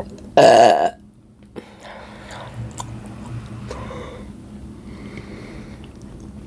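A person eating: a brief, loud, throaty mouth noise about half a second in, then soft chewing and mouth sounds.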